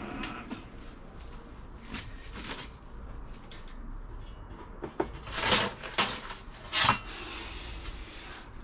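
A few knocks and clatters with short scraping noises, the loudest coming about five and a half to seven seconds in, over a low steady hum.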